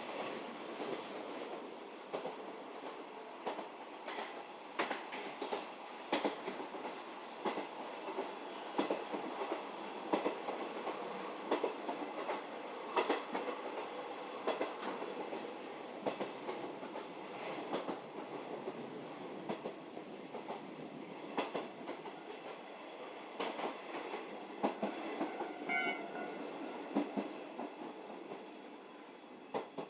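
711 series electric multiple unit heard from inside the carriage while running: a steady rumble of wheels on rail, with wheels clacking over rail joints again and again. A brief pitched tone sounds once, about 26 seconds in.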